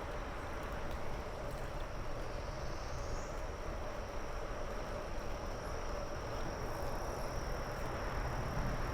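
Steady wind and tyre noise from a bicycle riding along a paved trail, with a high, steady insect trill coming in about three seconds in.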